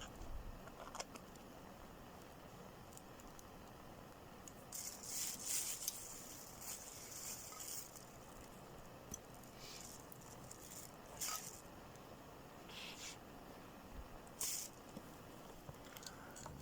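Faint, intermittent rustling and scraping, a few short hissy bursts, the longest lasting a few seconds about five seconds in, over a quiet background.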